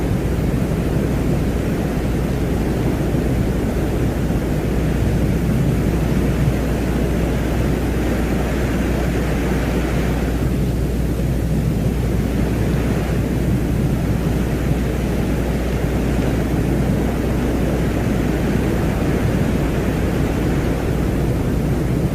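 Ambient space drone presented as the sound of Venus: a steady, deep rushing noise with a low hum underneath. A higher hiss swells and fades about halfway through, then rises again a little later.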